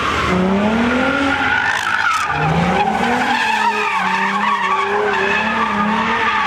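Car engine revving hard and holding high revs while its tyres squeal and skid, as in a burnout or donuts; the engine pitch rises twice, about half a second and two and a half seconds in, then stays high.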